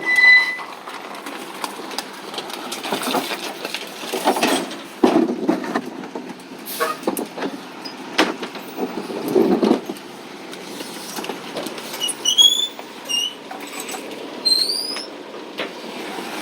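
Recycling collection truck at work: irregular clattering knocks and thuds over the truck's running, with a short high beep at the start and a few quick high squeaks near the end.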